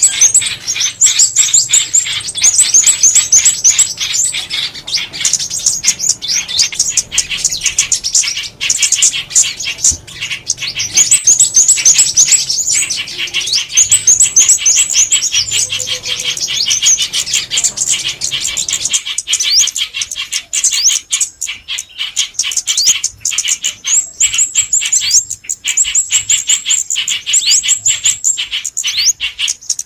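Small songbirds' calls in a lure recording for bird trapping: rapid, high-pitched chirping and twittering in fast trills and quick sweeps, with no pause.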